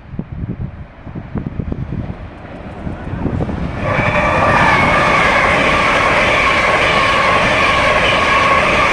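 A train passing close by: wheels clattering over the rail joints, then about four seconds in a much louder, steady sound with several held tones comes in and stays.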